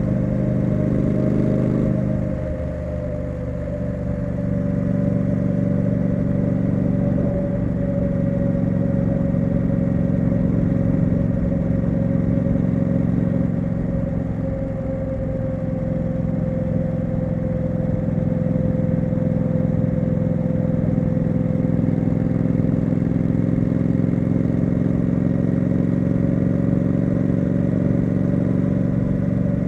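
Triumph Street Scrambler's 900cc parallel-twin engine and exhaust running while riding, holding a steady note after a brief dip about two seconds in.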